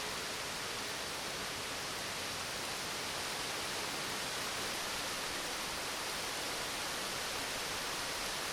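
Rain falling steadily in a rainstorm, an even hiss with no change in level.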